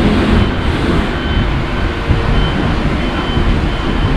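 Heavy vehicle running: a steady low rumble, with a faint thin high tone coming and going.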